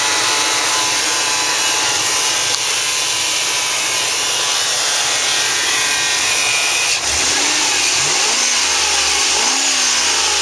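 Ford 5.4-litre Triton V8 engine of a 2002 Expedition running, revved up and down a few times near the end; it runs smoothly, a good running engine.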